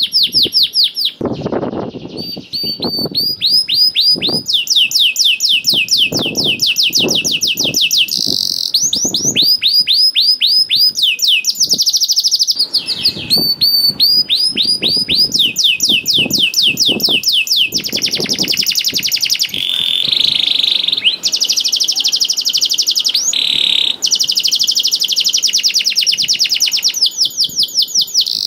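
Canary singing loudly and continuously, a long song made of fast trills of repeated high, downward-sweeping notes that switch from one trill to another every second or so, with only brief breaks.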